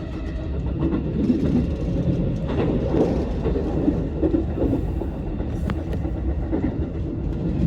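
Electric commuter train running, heard from inside the car: a steady rumble of wheels on rail, with a few sharp clicks.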